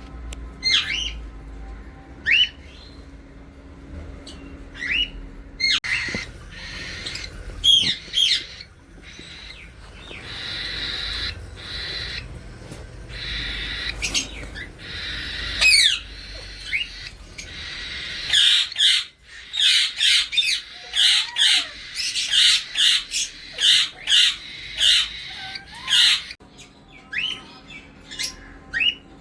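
Pet parrots calling: short, sharp rising squawks repeated every second or two, with stretches of raspy chatter between them. The calls come thick and fast about two-thirds of the way through.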